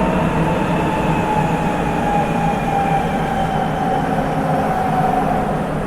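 Sapporo subway 8000-series train's Hitachi IGBT inverter whine, heard from inside the car over steady rubber-tyred running noise. The whine slowly falls in pitch and cuts out near the end.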